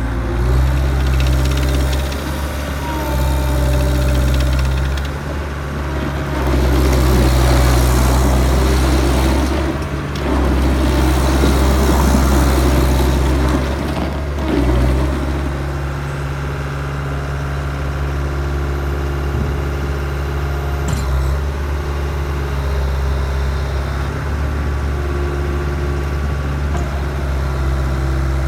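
CAT 287C skid steer's 84 hp CAT diesel engine running steadily. It swells louder several times in the first half, with a rougher, hissier sound between about 6 and 15 seconds in. It then settles to an even idle.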